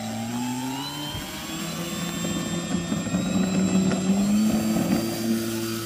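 Brushless electric motor and propeller of a large RC airplane running with a steady whine, its pitch rising in the first second or so.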